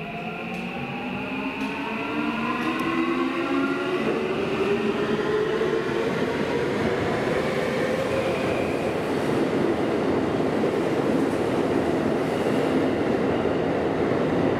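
Tokyu electric train accelerating away from the station. Its motor whine climbs in pitch and grows louder, then after about six seconds gives way to steady wheel-and-rail running noise.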